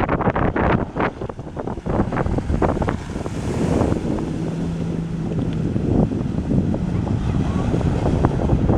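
Heavy wind buffeting the microphone aboard a fast-moving inflatable boat, over rushing, splashing water with many short slaps and knocks.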